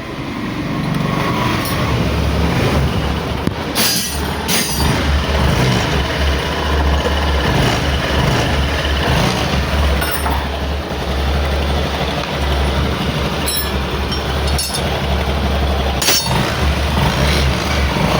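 A motor running steadily with a loud, deep hum, broken by a few sharp clicks or knocks.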